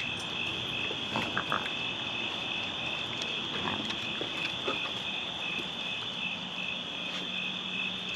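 Night insect chorus of crickets trilling, a steady high pulsing chirr. Scattered faint clicks and knocks sound over it.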